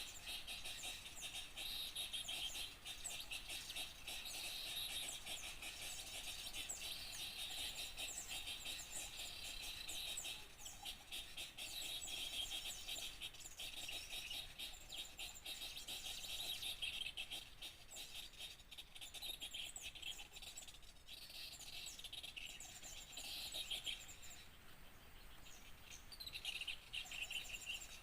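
A dense chorus of many small songbirds chirping and twittering at once, with rapid high notes overlapping continuously and a brief lull near the end. It is a bird-luring (pikat) recording meant to draw in small birds.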